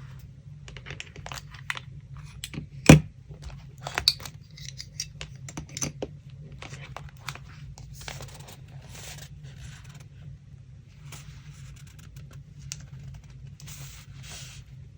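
Paper and craft materials being handled on a desk: scattered rustling, small clicks and taps, with one sharp knock about three seconds in, over a steady low hum.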